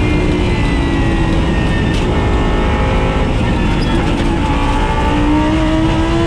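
Lamborghini Super Trofeo Evo race car's V10 running hard on track, its pitch sinking and then climbing again toward the end as it revs, over a heavy low rumble.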